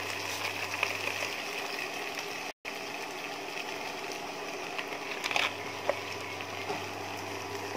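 Onion and spice masala sizzling in hot oil in a wok, with a splash of water poured in and a brief louder sizzle a little after five seconds in.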